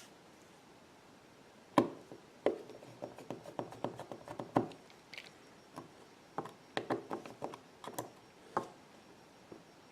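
An irregular run of small, sharp clicks and taps, beginning about two seconds in and ending shortly before the end: small tools and parts of an iPhone 6 being handled during reassembly.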